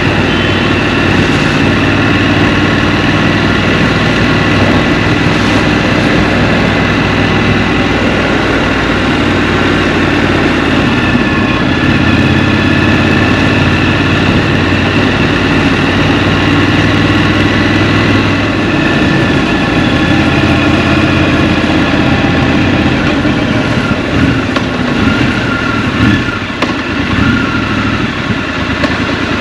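Scrambler motorcycle engine running steadily while riding. About three-quarters of the way through it gets a little quieter and more uneven.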